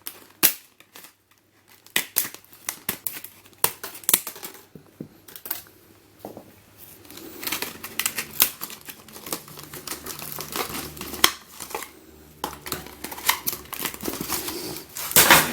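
Packaging being opened and handled by hand: plastic and paper crinkling and rustling, with many sharp clicks and taps.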